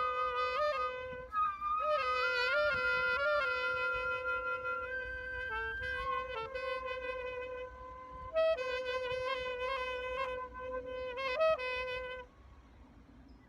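Wind instruments playing a slow tune: long held notes broken by quick ornamental flicks. The music stops about twelve seconds in.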